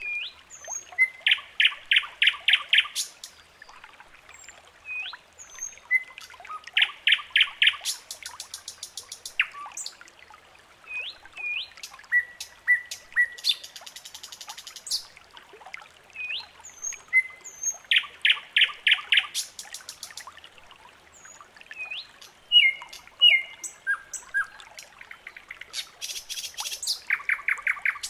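Several songbirds singing: repeated fast trills of rapid notes, short rising chirps, and a few very high, buzzy trills.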